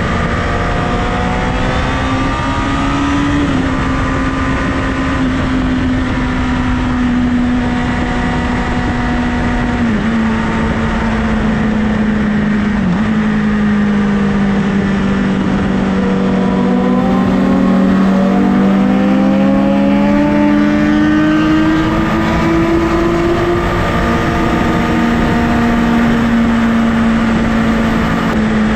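Honda CBR1000RR inline-four engine running at a steady highway cruise under a heavy rush of wind noise. Two brief dips in the engine note come in the first half. Near the middle a higher engine note climbs over several seconds and then falls back.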